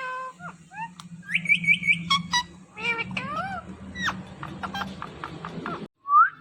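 Indian ringneck parakeet calling and chattering: short squeaky whistles and rising glides, a quick run of four rising notes, and arched meow-like calls mixed with clicks.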